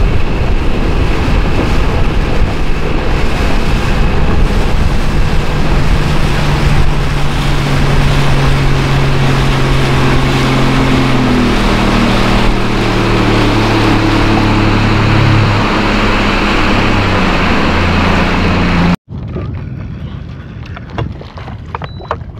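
Motorboat's outboard engine running at speed over open water, with wind rushing over the microphone; the engine note climbs partway through. It cuts off suddenly near the end, leaving quieter wind and water.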